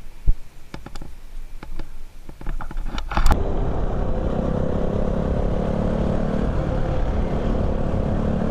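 A few scattered knocks and clatters, with one sharp thump just after the start. Then, from about three seconds in, a motor vehicle's engine runs steadily at an even speed under a rush of road or wind noise.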